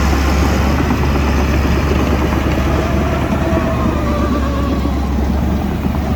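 Shantui DH17C2 bulldozer's diesel engine running steadily at working revs, a loud constant drone with a faint wavering whine above it.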